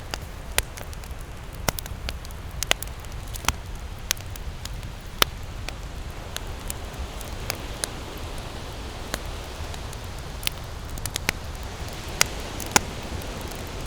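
Wood campfire burning: irregular sharp crackles and pops over a steady low rush of flame.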